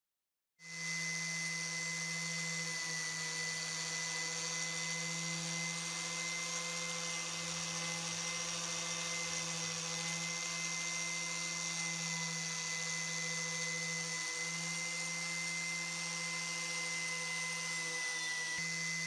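Electric power tool running at a steady, unchanging speed, with a constant hum and a thin high whine over a hiss; it cuts in about half a second in.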